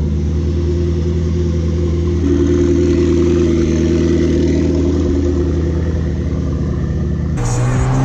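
Car engine idling steadily, its tone shifting slightly about two seconds in. Near the end it cuts abruptly to the louder, noisier sound of a car driving at speed.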